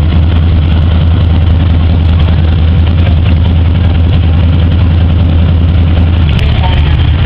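Hot rod engine idling loudly and steadily, a deep even note with no revving.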